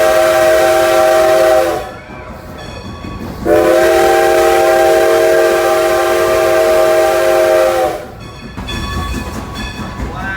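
Steam locomotive's chime whistle sounding two long blasts, several tones at once. The first cuts off about two seconds in and the second holds for about four and a half seconds.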